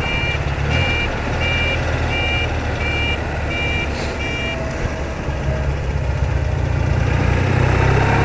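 BMW R80RT's air-cooled flat-twin engine running steadily on the road. Over it comes a short two-tone electronic beeping, about two beeps a second, which stops about four and a half seconds in.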